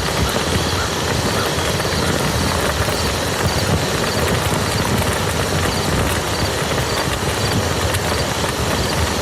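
Steady rain falling on a muddy field: a dense, even patter of drops over a low rumble.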